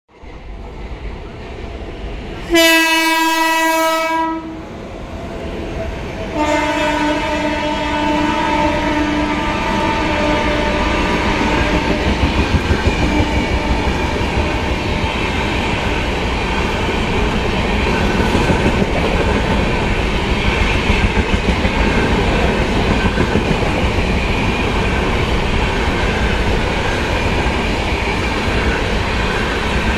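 Indian Railways passenger train running through at speed. The locomotive horn sounds a short blast about two and a half seconds in, then a longer blast slightly lower in pitch that fades away. After that comes the steady rumble and rhythmic clickety-clack of LHB coaches' wheels running past.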